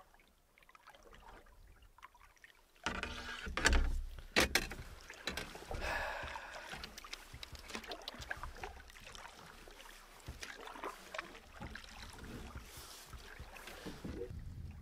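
Canoe paddling: paddle strokes in the water, with splashing and drips and a few sharp knocks. Quiet at first, it starts abruptly about three seconds in.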